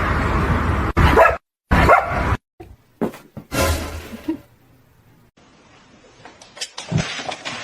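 A dog barking in several short, separate bursts, after a steady noise cuts off about a second in.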